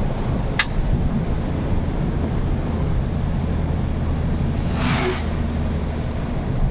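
Old Suzuki Katana driving: a steady low engine and road drone. A short sharp click comes just over half a second in, and a brief hiss swells and fades about five seconds in.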